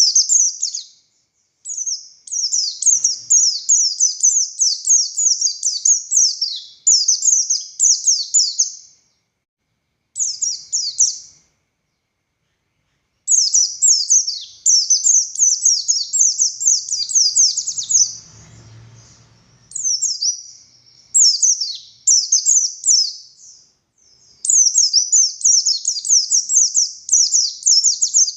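White-eye (pleci buxtoni) singing hard in long, rapid runs of high, downward-slurred chirps, broken by silent pauses of a second or two. A faint low rumble comes in briefly past the middle.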